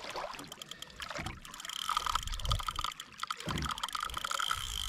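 Fishing reel drag buzzing with a fine rapid clicking as a hooked fish, taken for an ono, runs line off, growing stronger about two seconds in. Water sloshes and knocks against the kayak beneath it.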